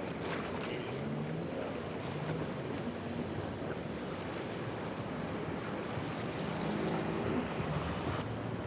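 Steady wash of surf and wind noise on the microphone, with boat engines running in the inlet.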